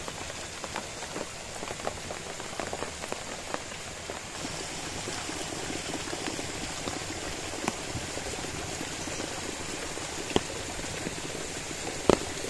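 Steady rain falling, with scattered drops ticking close by; the hiss gets a little louder about four seconds in.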